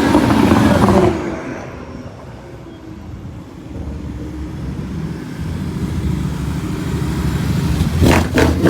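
Car engines accelerating hard. One car passes loudly in the first second and fades away, then another engine's note builds steadily. A few short, sharp cracks come near the end.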